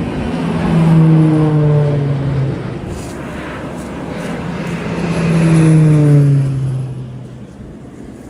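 Propeller aircraft flying past low, twice: each pass swells up and the engine's drone drops in pitch as it goes by, about a second in and again around six seconds in.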